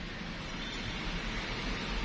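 Steady background hiss in a pause between bird calls, with one faint, short high chirp less than a second in.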